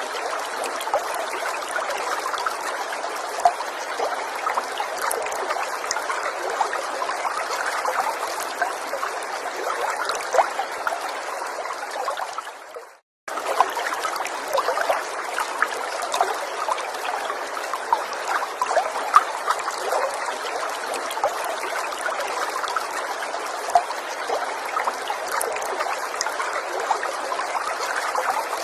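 Small forest stream trickling and babbling steadily, with small droplet splashes. About 13 seconds in, the water sound fades out to silence and comes straight back within a second.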